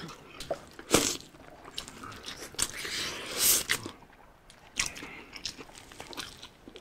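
Close-miked eating sounds: two people biting into fried chicken and fried fish and chewing, with crisp crunches and wet chewing in short, irregular clicks.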